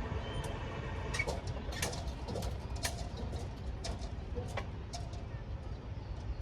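Steady low rumble of a moving train, with a scattering of short, sharp clicks and knocks through the middle.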